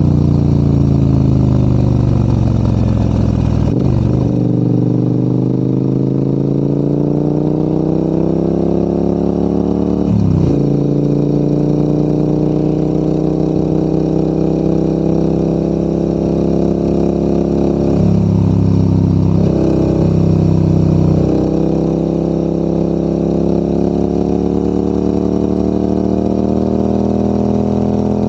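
Large adventure motorcycle's engine pulling uphill. The revs fall and climb steadily, with short breaks that sound like gear changes about 4 and 10 seconds in, and another change just past the middle.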